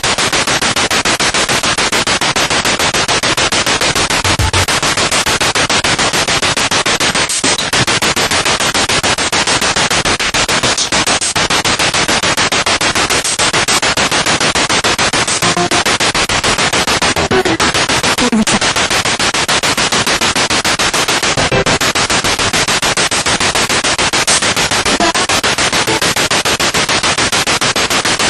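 Spirit box radio sweeping rapidly through stations: loud, steady static chopped into quick even pulses, with brief snatches of broadcast sound breaking through here and there.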